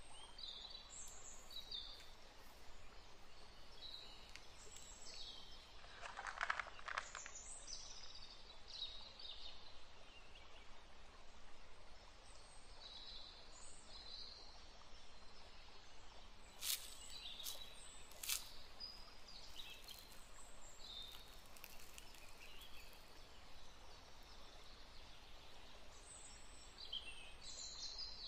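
Small birds chirping and twittering, short high calls scattered throughout over a faint hiss, with a few sharp clicks past the middle.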